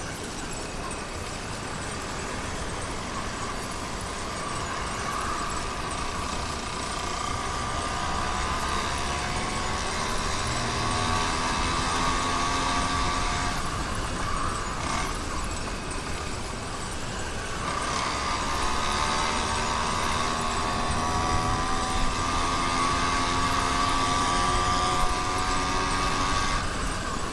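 Motorized bicycle's small two-stroke kit engine running under throttle while riding, its pitch climbing steadily as it picks up speed. It eases off about halfway through, climbs again, and drops away right at the end.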